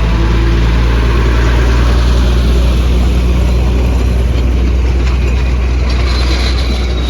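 A train passing close by, its engine running with a steady low drone that eases slightly near the end.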